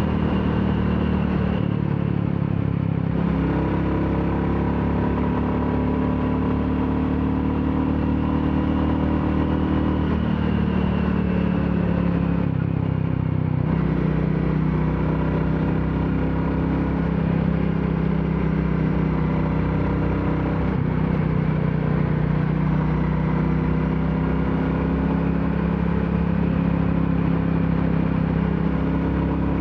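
Royal Enfield Classic 350 single-cylinder engine running under way. The note eases off briefly twice, a couple of seconds in and again about thirteen seconds in, then picks up at a different pitch.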